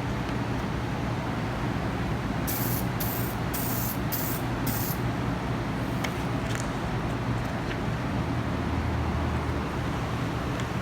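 An aerosol spray paint can sprays five short bursts in quick succession, each a hiss lasting under a second, over a steady low hum. A few faint ticks follow.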